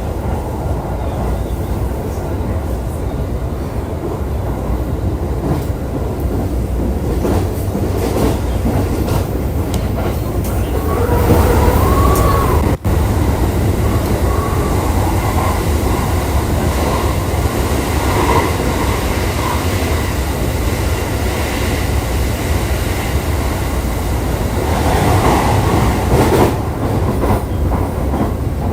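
JR East E531 series electric train running at speed, heard from inside the car: a steady rumble of wheels on rail with some clickety-clack over rail joints. A brief wheel squeal rises and falls near the middle, and the sound cuts out for an instant just after it.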